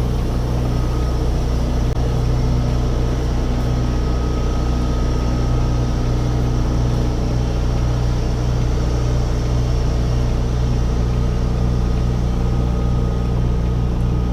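Semi-truck diesel engine running steadily at low revs, heard from inside the cab, with a faint steady whine above the engine hum.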